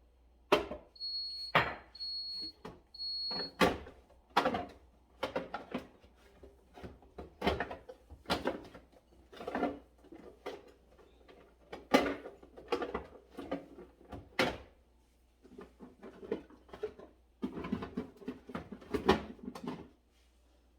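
Containers and items being handled and set down, a steady run of knocks and clatters, with drawer- or door-like sounds. Three short high electronic beeps come close together about a second in.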